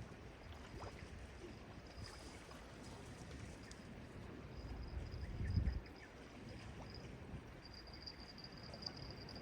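Sea waves washing on the shore, a low steady wash with one louder surge about five and a half seconds in. A faint, thin high tone comes and goes above it, steadier near the end.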